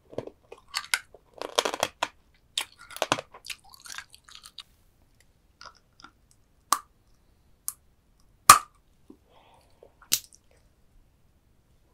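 Close-up chewing and crunching of soy-sauce-marinated stone crab, its shell cracking between the teeth: a dense run of crunches for the first four seconds or so, then a few separate sharp cracks, the loudest about eight and a half seconds in.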